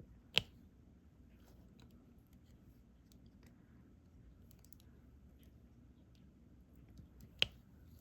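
Faint ticks of diamond painting: a stylus picking up small resin drills and pressing them onto the canvas, with two sharper clicks, one just after the start and one near the end.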